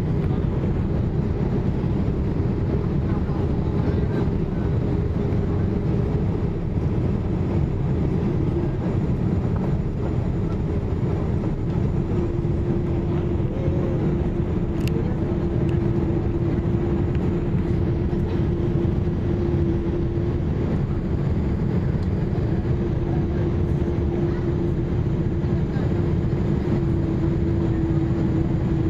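Steady rumble of a Boeing 787 in flight on approach, heard from inside the cabin: engine and airflow noise at an even level, with a steady hum coming in about halfway through.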